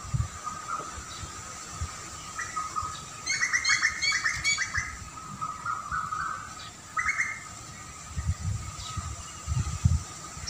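Birds chirping outdoors: a quick run of chirps between about two and five seconds in, then a few single calls, over a steady faint high tone. Low rumbles come and go near the end.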